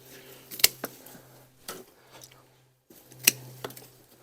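Three sharp clicks about a second apart over a low steady hum.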